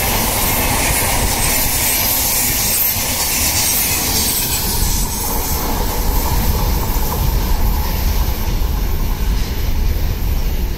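Express passenger train's coaches running past on the rails, a loud steady rush of wheels on track with a high hiss. About halfway through the hiss fades and a low rumble takes over.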